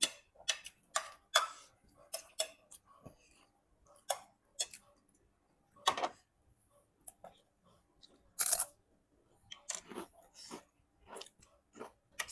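Irregular sharp clicks and knocks, several in the first two seconds and then more spread out, with a louder quick clatter of a few knocks about eight and a half seconds in.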